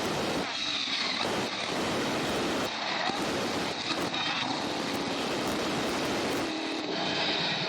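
Monster truck engine running loud and steady, heard as a rough, noisy din.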